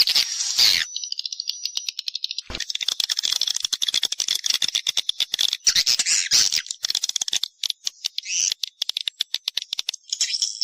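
Swiftlets calling: a dense, high-pitched twittering with rapid runs of clicks, from many birds at once.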